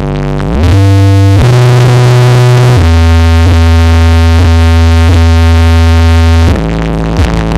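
Electronic dance music played very loud through a truck-mounted carnival sound system. A synth sweep rises just after the start, then long, heavy held bass notes change pitch a couple of times before the beat drops back near the end.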